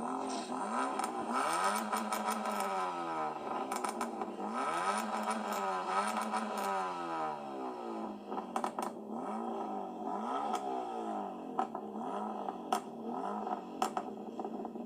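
A car engine being revved hard again and again, its pitch climbing and dropping in repeated blips roughly every one to two seconds, with sharp crackles in between.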